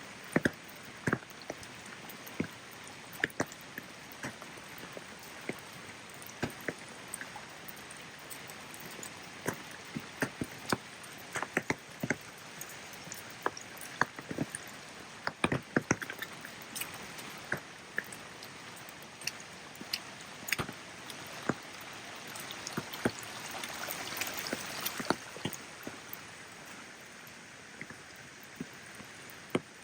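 Steady rain hiss with many irregular sharp drips and taps of drops landing close by. The hiss swells for a couple of seconds about three quarters of the way through.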